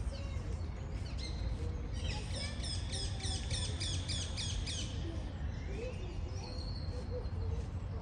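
Small birds chirping, with a quick run of repeated chirps, about five a second, lasting some three seconds from about two seconds in, over a steady low rumble.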